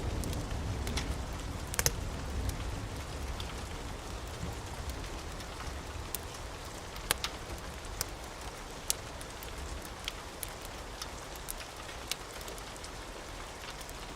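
Steady rain with a low thunder rumble dying away over the first few seconds, and scattered sharp crackles from a wood fire.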